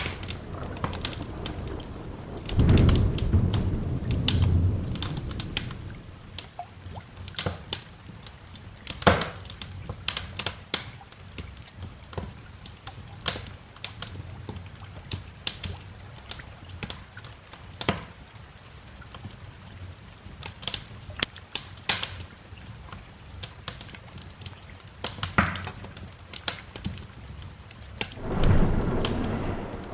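Wood fire crackling with frequent sharp pops and snaps over a steady hiss of rain. Rolls of thunder rumble low about three seconds in and again near the end.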